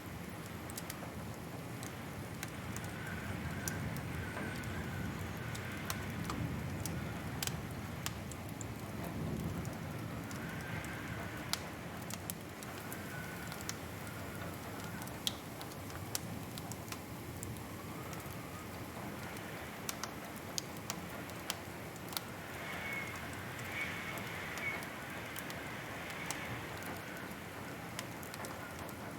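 Wood fire in a fireplace crackling, with frequent sharp pops and snaps over a steady low rumble of burning. A faint wavering whistle rises and fades now and then, clearest near the end.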